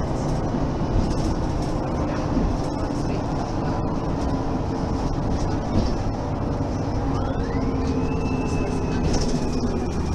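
Mercedes-Benz Citaro Facelift city bus running, with a steady rumble throughout. About seven seconds in, a whine rises in pitch, then slowly falls away.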